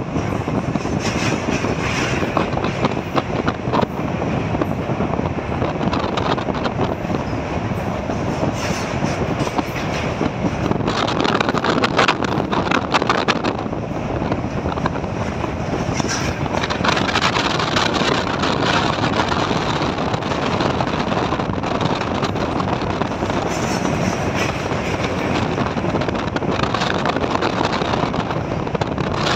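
Vande Bharat Express train running at speed across a steel truss bridge: a steady loud rumble and rush of wheels on rail, threaded with many fine rapid clicks.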